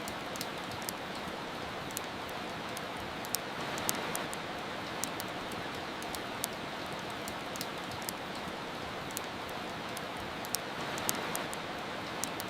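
Steady hiss of soft rain with the irregular, sharp pops and crackles of a wood fire burning in a fireplace.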